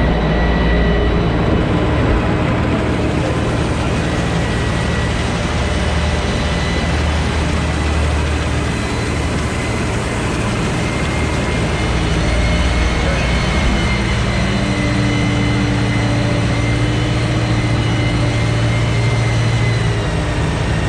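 Sherp 10x10 all-terrain vehicle's engine running steadily as a continuous low drone, with a thin steady whine above it.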